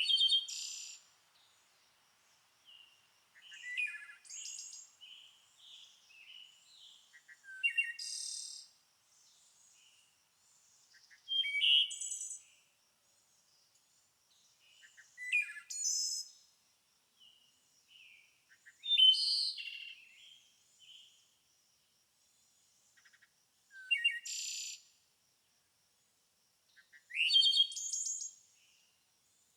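A songbird singing short, bright, chirping phrases about every four seconds, with softer chirps in between.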